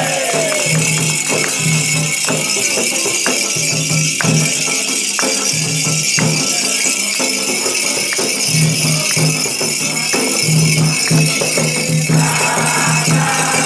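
Candomblé ritual percussion music: rattles shaking continuously over a repeating low-pitched beat, with sharp strikes scattered through it.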